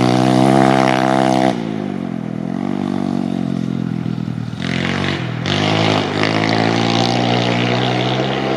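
YCF 150 Classic pit bike's 150cc four-stroke single revving hard at full throttle, shutting off abruptly about a second and a half in. The revs then dip and climb again, with a short burst near the middle, and it pulls steadily through the second half.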